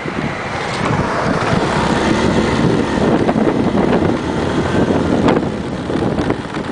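Wind rushing over the microphone of a small motorbike on the move, with its engine and road noise running underneath.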